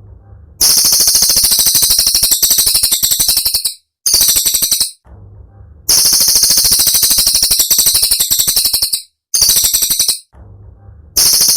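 Cililin songbird singing a rapid, high, dense trill in long bursts of up to three seconds, broken by short pauses.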